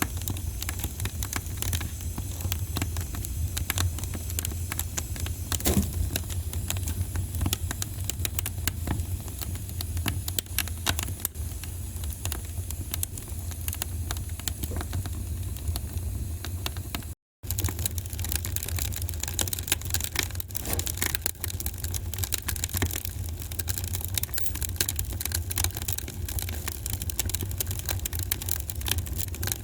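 Wood fire crackling in a fireplace: dense, irregular pops and snaps over a steady low rumble. The sound cuts out completely for a split second a little past the middle.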